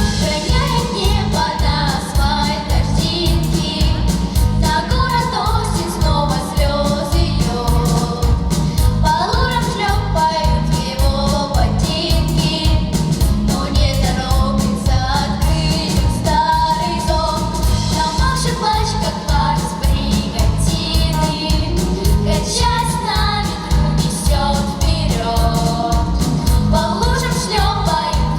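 A song with a steady beat and backing track, sung by female voices.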